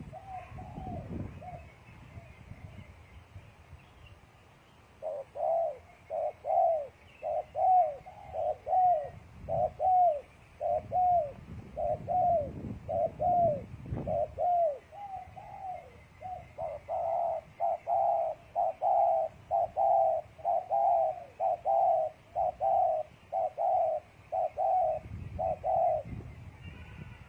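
Spotted dove (tekukur) cooing: a long run of short, evenly repeated coo notes that become faster and more closely packed in the second half, then stop a little before the end.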